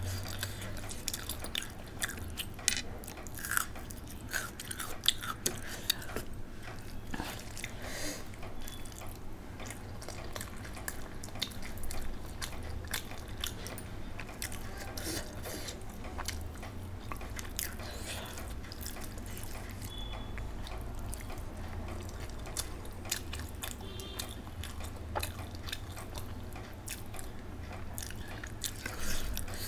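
Close-up chewing and mouth sounds of a person eating rice and boiled egg by hand, with frequent short wet clicks scattered throughout, over a low steady hum.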